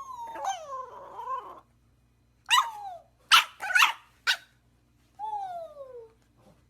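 A dog whining and yipping: a wavering whine, then a few sharp loud yips about halfway through, then a long whine falling in pitch.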